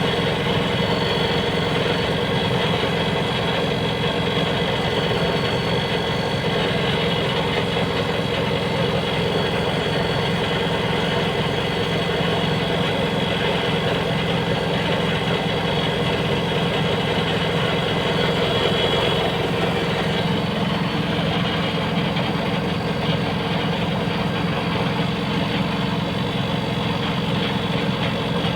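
Split air conditioner running with a steady hum and a few steady tones, unchanged throughout.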